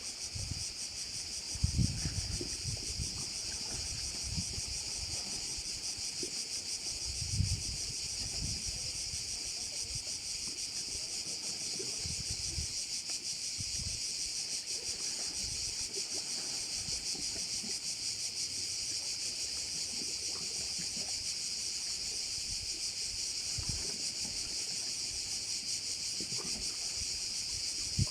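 Steady, shrill chorus of cicadas in full song, a dense pulsing buzz that does not let up. Low thumps of wind on the microphone break in around 2 and 7 seconds in.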